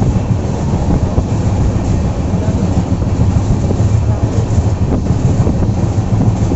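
Steady low rumble of a moving passenger train, heard from inside the coach, with some wind noise on the microphone.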